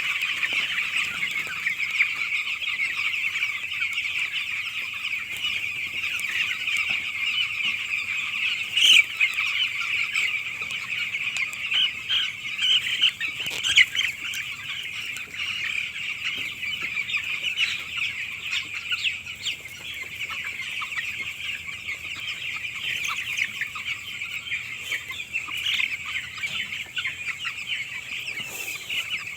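A flock of nine-day-old chicks peeping continuously, many high calls overlapping, with a couple of brief sharper sounds near the middle.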